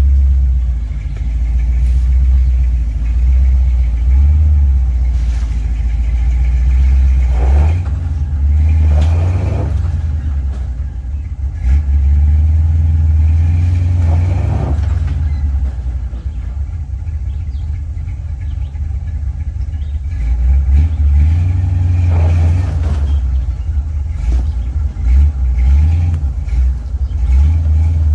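First-generation Dodge Ram pickup driving on a gravel road, its engine running with a steady low drone. A few brief louder surges come through along the way.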